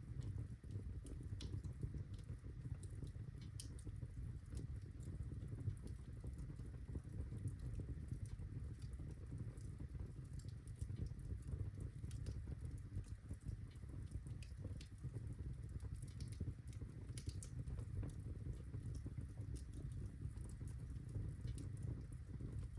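Birchwood fire crackling in a fireplace: scattered sharp snaps and pops over a steady low rumble.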